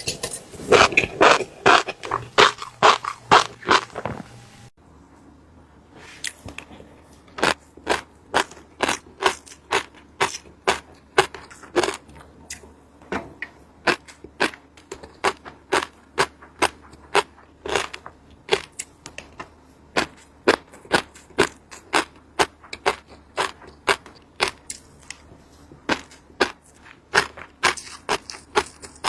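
Fish roe being crushed, giving sharp crackling pops. The pops come thick and fast at first, then, after an abrupt break, settle into a steady run of single pops at about two a second.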